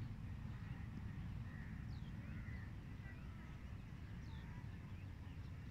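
Birds chirping: scattered short calls and two quick falling whistles over a steady low rumble.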